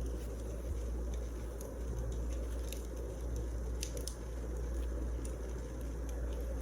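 Wood fire crackling: irregular sharp pops and snaps over a steady low rumble, with a couple of louder pops about four seconds in.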